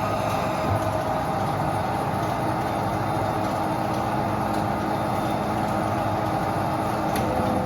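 1993 Behringer HBP530A horizontal band saw running: a steady mechanical noise with a low hum and a few held tones from its drive and blade.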